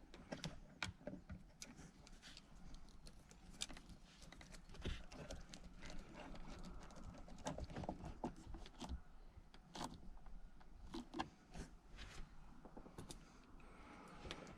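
Scattered light clicks and knocks at irregular intervals, from hand tools and car interior trim parts being handled.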